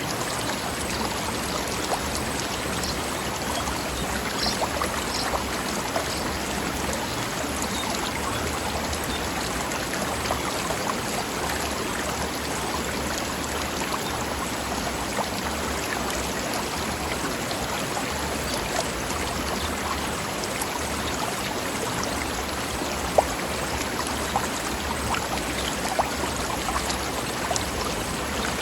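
Mountain stream flowing over rocks: a steady rush of water, dotted with small splashes and gurgles.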